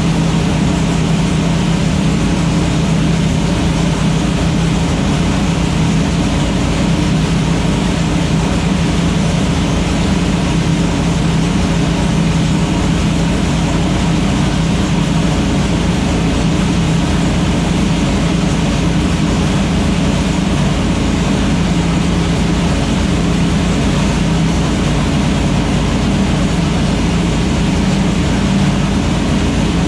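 Freshly started engine running steadily at idle while it warms up, a constant low drone with no revving.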